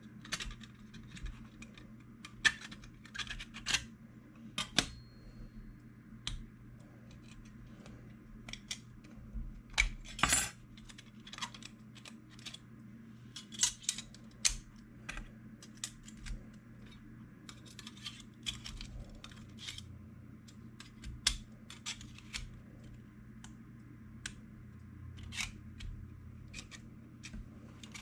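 Irregular clicks and taps of hand work on a leather case, some sharp and louder, over a faint steady low hum.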